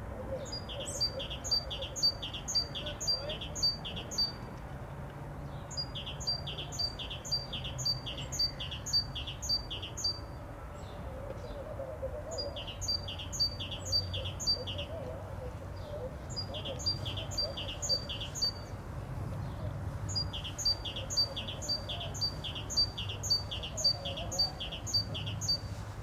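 A songbird singing phrases of one two-part note repeated evenly, about two to three notes a second, each phrase several seconds long with short pauses between, five phrases in all. A faint low drone runs underneath.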